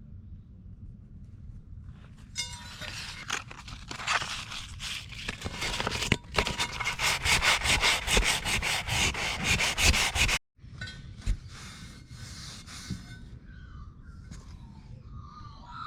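Fast back-and-forth hand scrubbing on a wheel part, several strokes a second, working loose flaking clear coat and grime. It starts about two seconds in and stops abruptly about ten seconds in, followed by quieter handling sounds.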